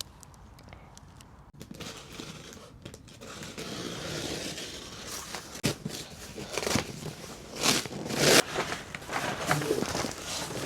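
Rustling and crinkling of something being handled, with several louder, sharper crinkles in the second half.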